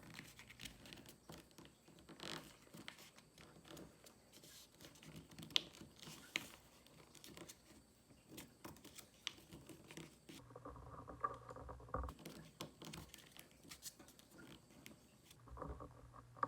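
Faint rustling and crinkling of a sheet of origami paper being folded and creased by hand, with soft scattered taps and scrapes of fingers on the paper.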